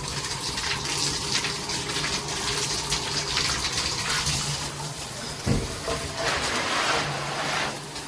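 Water spraying steadily from a JDO 6-setting handheld shower head, a continuous hiss, with a single knock about five and a half seconds in.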